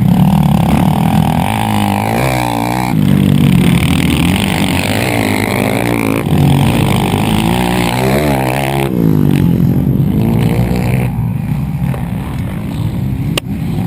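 Two-stroke motorcycle engines revving hard, their pitch rising and falling several times as the throttle opens and closes.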